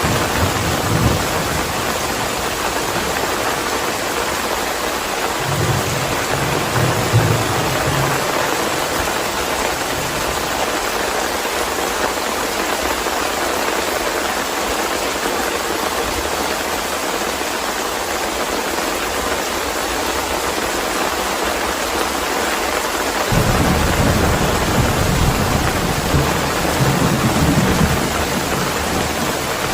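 Steady rain with rolling thunder. There are short low rumbles near the start and again around six to eight seconds in, and a longer, louder rumble from about twenty-three seconds until shortly before the end.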